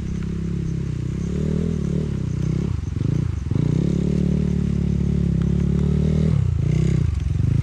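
Trail motorcycle engine running under throttle, its pitch dropping and picking up again about three seconds in and once more near the end, as the rider eases off and gets back on the throttle.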